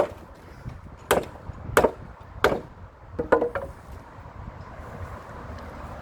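Wooden gate timber being struck, five sharp knocks about a second apart with a quick double knock on the last, then they stop about halfway through.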